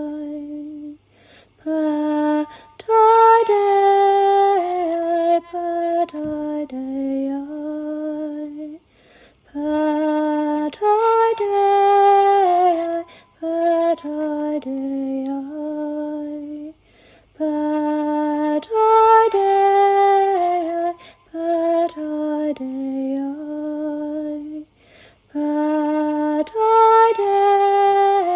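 A woman singing slow, wordless, lullaby-like phrases of long held notes. The phrases step gently up and down and are separated by short breaths, in a pattern that comes round about every eight seconds.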